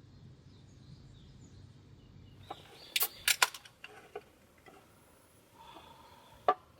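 Faint outdoor ambience with a few bird chirps. About three seconds in, a quick cluster of sharp clicks and knocks from objects being handled, then one more sharp click near the end.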